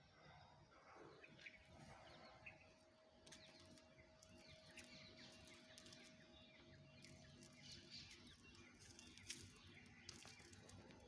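Faint, scattered bird chirps over a quiet outdoor background, with a faint steady hum through the first half or so.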